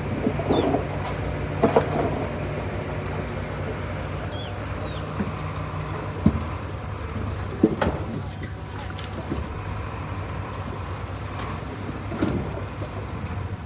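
Diesel engine of heavy earthmoving machinery running steadily, with a few sharp metallic clanks and knocks from rock and steel. The engine note changes about six seconds in.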